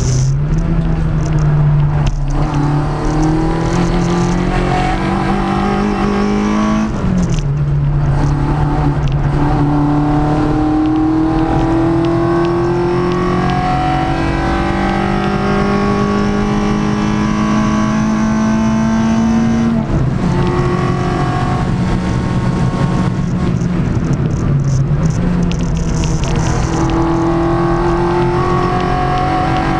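Peugeot 106 engine on Jenvey throttle bodies, heard from inside the cabin, pulling hard under full throttle on track. Its pitch climbs steadily through long pulls and drops sharply about five times at gear changes.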